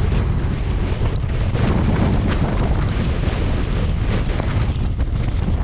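Tropical-storm wind buffeting the microphone in a loud, steady rumble, with heavy surf beneath it.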